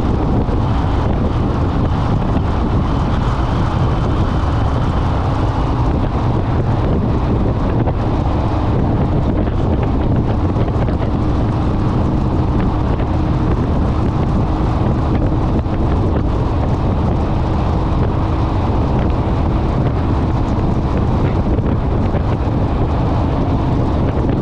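Wind rushing over the microphone of a motorcycle at road speed, steady and loud, with a faint engine drone underneath that shifts slightly in pitch.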